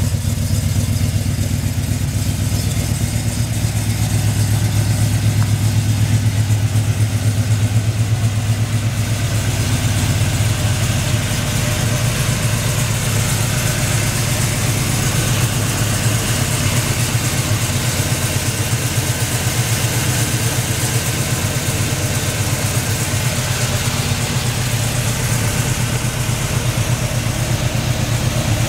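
1982 GMC Caballero's 350 cubic inch (5.7 L) GM crate V8 idling steadily.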